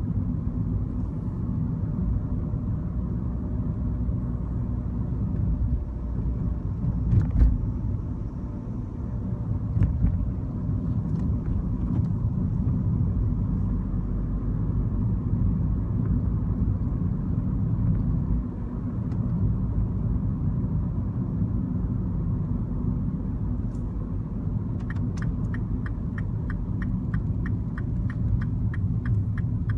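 Mini Cooper engine and road noise heard inside the cabin while driving, a steady low rumble with a couple of thumps along the way. About 25 seconds in, a regular ticking starts, roughly two and a half clicks a second, the turn-signal indicator.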